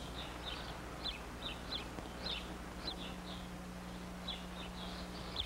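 Small birds chirping in short, high notes, irregularly about two a second, over a faint steady low hum.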